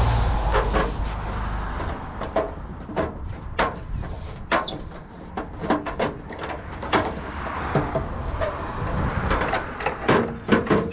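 Irregular sharp clicks and knocks of hand tools, pliers and spanners, on the fittings of a gas hot water unit, over a low steady background rumble.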